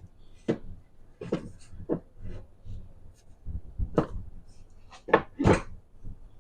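A series of irregular knocks and clatters, about seven in six seconds. The loudest come about four seconds in and twice more near the end.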